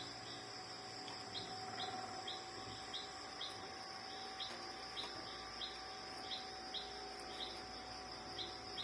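Faint background of a steady high-pitched insect drone, with a short high chirp repeating roughly every two-thirds of a second.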